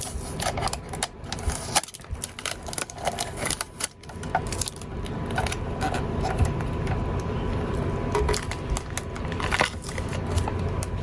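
Packaging being handled: crackling and crinkling with many irregular small clicks and knocks.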